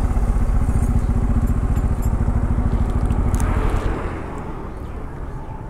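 Bajaj Pulsar N250 single-cylinder engine running as the motorcycle rides slowly and pulls up, dropping to a quieter idle about four seconds in.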